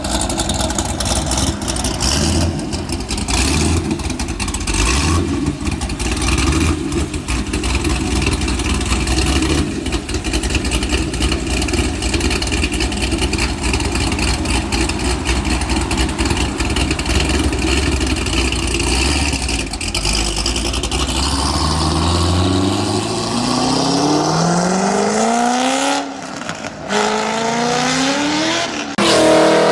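Chevrolet LS7 7-litre V8 running at low revs for most of the stretch, then revving up in rising sweeps from about two-thirds in. It drops off briefly and climbs again near the end.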